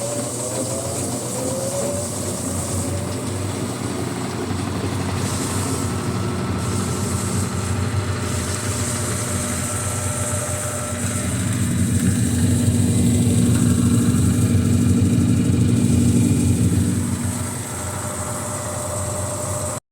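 Washing-machine motor running steadily, rising in pitch at the start and running louder for several seconds in the second half.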